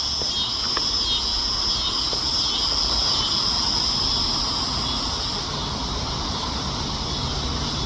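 Steady chorus of insects, a continuous high-pitched drone, over a low steady rumbling noise.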